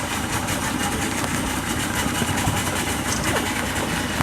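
Tour boat's motor running steadily, an even, unchanging engine noise.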